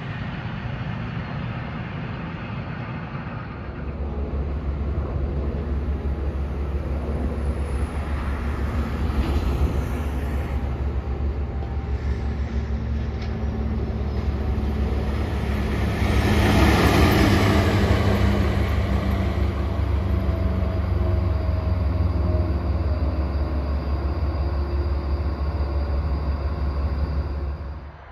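An electric freight train passing: wheels rolling over the rails under a steady low hum. It grows loudest about halfway through as the locomotive goes by close, then the wagons run on past until the sound cuts off suddenly near the end.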